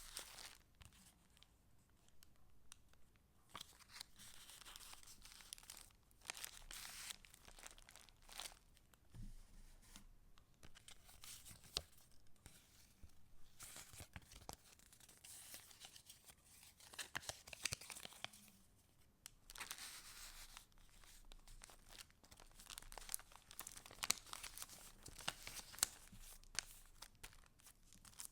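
Pages of a handmade paper junk journal being turned and handled: soft rustling and crinkling of paper in repeated swishes of a second or two, with small sharp taps and clicks between them.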